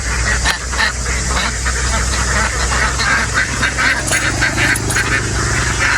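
A large flock of farmed ducks quacking continuously, many calls overlapping into a dense chatter, over a steady low hum.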